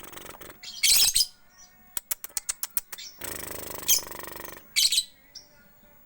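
Young lovebird, about three months old, giving short, loud, shrill chirps, three of them. A quick run of sharp clicks comes about two seconds in.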